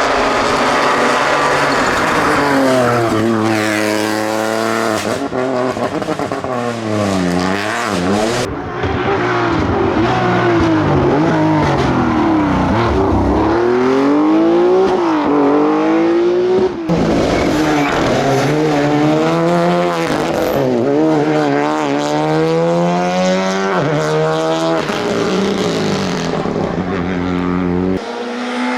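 Rally car engines revving hard, the pitch climbing and dropping again and again through gear changes and lifts. Several separate passes are cut back to back, with abrupt changes between them.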